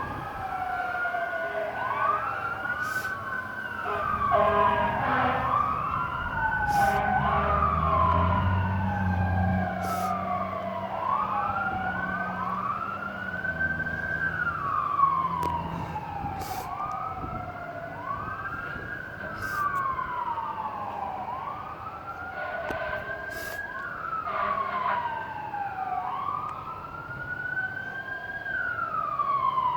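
Fire truck sirens, several at once, each in a slow wail that rises and falls, overlapping out of step. A deep rumble of heavy truck engines comes in for several seconds near the start.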